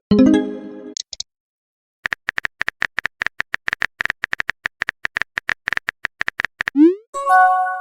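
Phone texting sound effects: a fast string of typing clicks, about five a second, lasting several seconds. A short chime comes at the start, and near the end a quick rising swoop leads into a brighter chime, like a message being sent or received.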